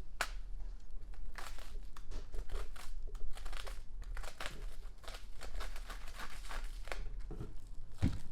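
Plastic packaging wrap being crinkled and torn open by hand, an irregular run of crackles and rips, with a short low thump near the end.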